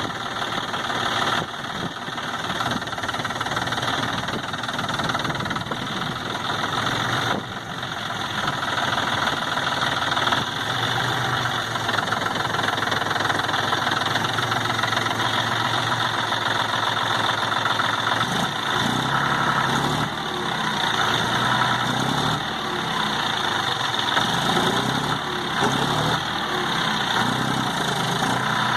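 John Deere tractor's diesel engine running continuously, its speed rising and falling in the second half.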